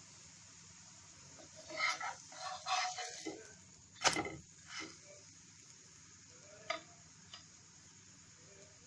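Buckwheat-flour chilla frying in oil in a non-stick pan, a steady faint sizzle. A few short knocks and scrapes break in around the middle, the sharpest about four seconds in, with two small clicks later.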